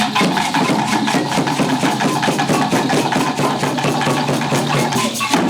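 Drum music with a fast, even beat over a steady low drone, cutting off at the very end.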